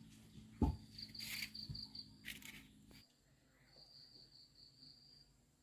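An insect trilling in a high, pulsing run about a second in and again from about four seconds in. A low hum stops abruptly about three seconds in, and there is a thump and some brief rustling.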